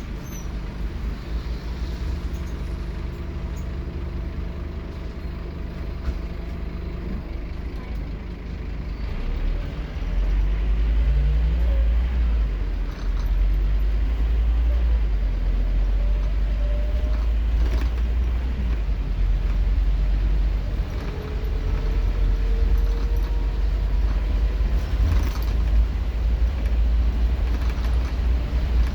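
Scania K230UB Omnilink bus's diesel engine idling steadily, then pulling away about ten seconds in and running hard under acceleration, its pitch rising in several sweeps as it works up through the gears.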